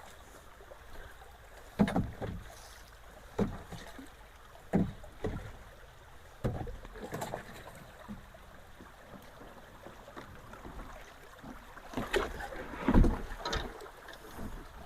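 Water splashing and sloshing in irregular strokes, about seven of them, as someone wades and reaches into a flooded ditch, the loudest near the end.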